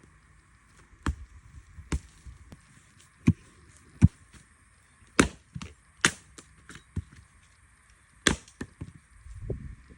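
Chopping: about ten sharp strokes of a blade into wood, irregularly spaced, with smaller knocks in between.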